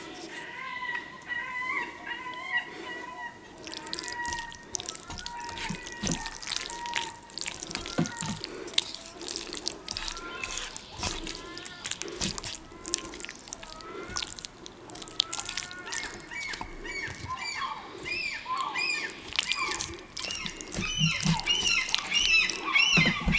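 Close-miked eating sounds: wet chewing, lip smacking and slurping of noodles, with many sharp sticky clicks, starting a few seconds in.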